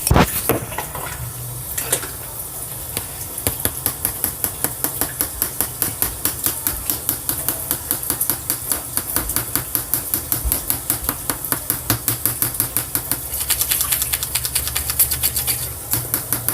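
A spoon stirring or beating in a bowl, knocking against its side in a fast, even rhythm of about four to five clicks a second, after one loud knock at the start.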